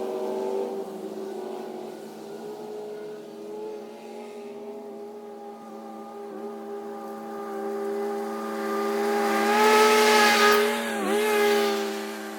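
Lawn mower engine running steadily while cutting grass. About ten seconds in it grows louder with an added hiss, and its pitch dips briefly just after before settling back.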